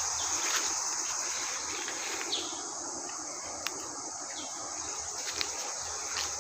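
Steady high-pitched drone of an insect chorus, with a few short chirps and faint ticks over it.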